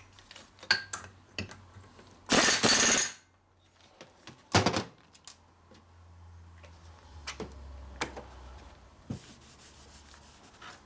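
A short hissing blast from a compressed-air blow gun, about two seconds in, blowing through the oil passages of a shovelhead flywheel and crank pin assembly to check they are clear. Metal parts and tools clink and knock around it, with one sharp knock a second or two after the blast.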